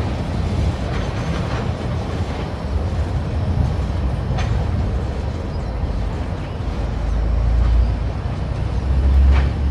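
Train passing: a steady low rumble that swells twice near the end, with a few sharp clicks.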